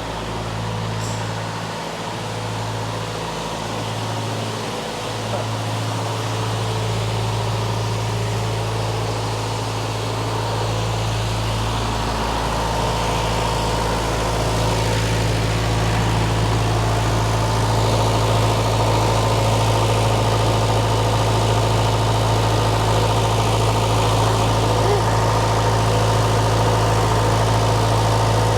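Case 1840 skid steer's diesel engine running steadily, getting somewhat louder about halfway through.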